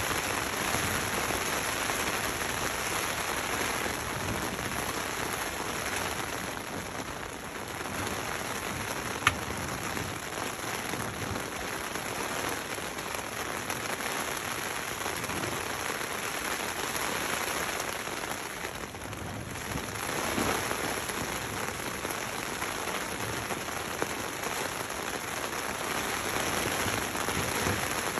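Rain pattering steadily on a tent's fabric roof, heard from inside the tent. One sharp click about nine seconds in.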